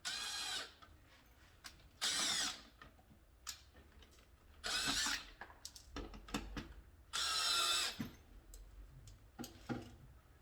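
Electric drill run in four short bursts of under a second each, two to three seconds apart, its pitch bending within each run, with small clicks and taps between them.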